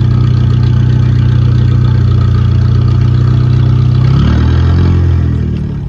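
A car engine running loudly at a steady low speed, then rising in pitch about four seconds in and fading as the car pulls away.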